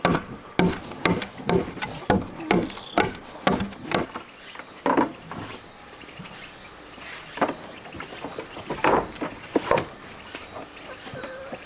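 Wood being struck hard about twice a second for the first four seconds, then a few scattered knocks, with insects chirring steadily behind.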